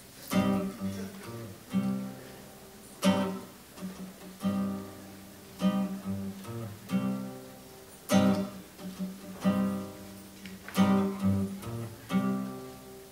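Acoustic guitar playing an instrumental intro in rhythmic strummed chords, about one stroke every second and a quarter.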